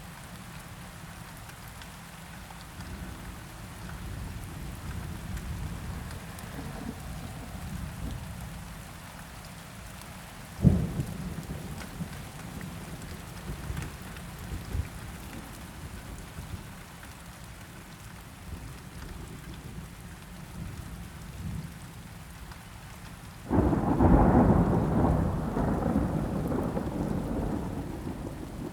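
Steady rain with low rumbling thunder. A sharp thunderclap comes about ten seconds in, and a loud roll of thunder breaks in near the end and slowly dies away.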